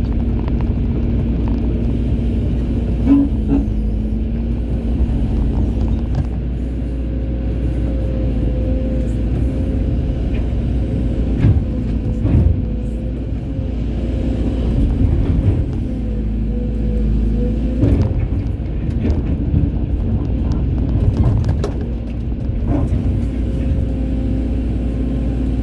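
Excavator running steadily, a low diesel rumble with a wavering whine from the working hydraulics and scattered knocks.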